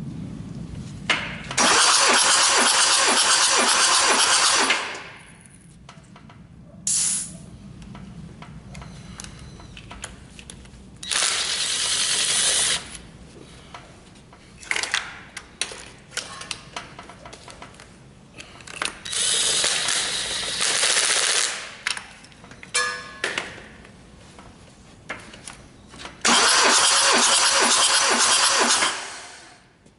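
Kia J3 four-cylinder diesel engine, out of the vehicle, turned over by its starter motor for a compression test. Four cranking runs of about two to three seconds each, with a rapid rhythmic chug, and scattered clicks in the pauses between them.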